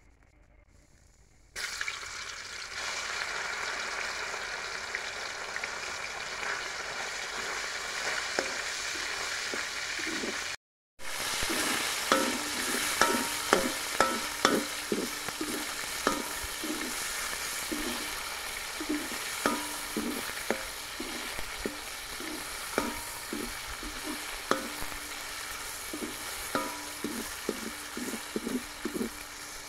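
Chicken pieces sizzling in hot oil in a large iron wok; the sizzle starts suddenly about a second and a half in. After a brief break, a metal ladle scrapes and clinks against the wok again and again as the chicken is stirred.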